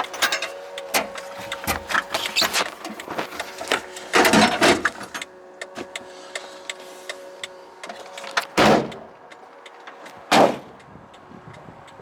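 Electric small garbage truck's body machinery working: a steady whine with rapid clicking and rattling, broken by three loud clanks, the first about four seconds in and the last near the end. The whine fades after the second clank.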